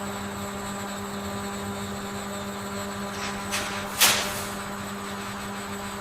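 Dairy processing machinery humming steadily, with two short hisses a little after three and a half seconds and just after four seconds, the second starting with a click.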